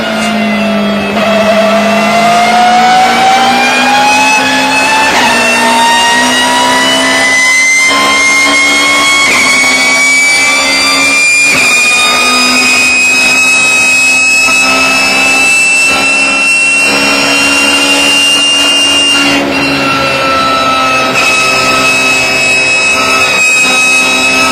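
BMW E36 race car running loudly under way, its straight-cut gears giving a strong high whine that climbs in pitch over the first dozen seconds and then holds steady over a steady lower drone.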